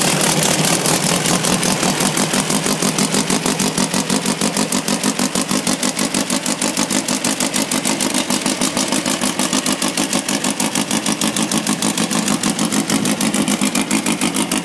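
Funco buggy engine idling on a cold start, running steadily with an even, rapid pulse from its exhaust.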